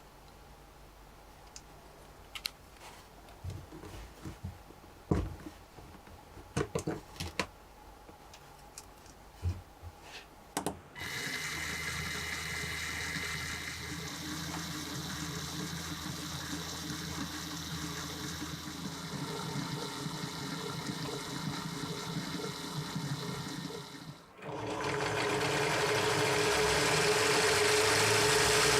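Lego Technic parts clicking as they are fitted together, then about eleven seconds in a motor starts spinning a Lego opposed-piston engine model with a steady mechanical whir and clatter. Near the end it cuts out for a moment and comes back louder.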